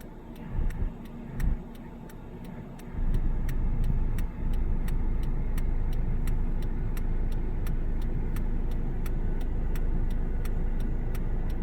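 A car with its engine running: a steady low rumble, louder from about three seconds in, with a regular tick about twice a second.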